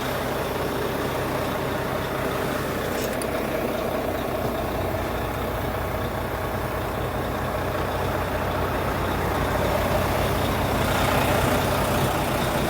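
A Volvo D13 inline-six diesel engine in a semi truck idling steadily, getting slightly louder near the end.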